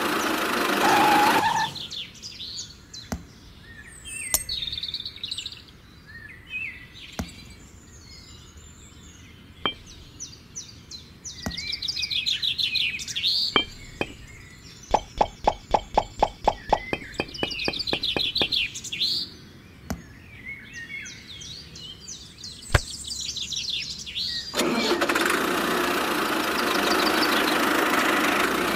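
A toy tractor's small electric motor whirs loudly at the start and again for the last few seconds. In between come bird chirps, including a quick run of about a dozen notes around the middle, and scattered sharp clicks as miniature bricks are set down in a plastic trailer.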